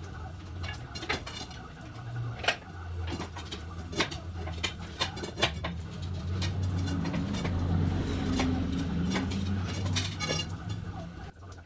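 Metal clinking and knocking, a string of sharp ringing clicks at uneven intervals, over a steady low hum.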